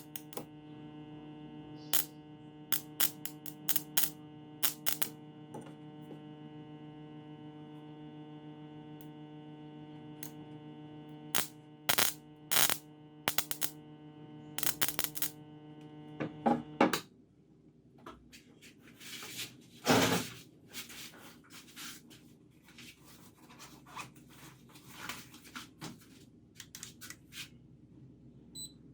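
Steady electrical hum from a homemade spot welder's microwave-oven transformer, with sharp clicks and snaps over it. The hum cuts off suddenly about 17 seconds in, leaving scraping and handling noises, with one louder rustle near 20 seconds.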